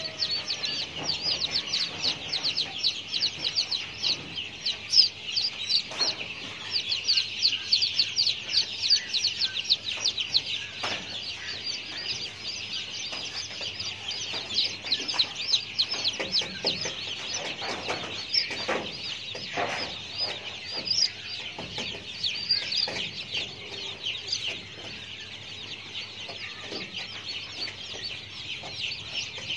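Birds chirping rapidly and continuously in a dense chorus, with a few lower calls in the middle.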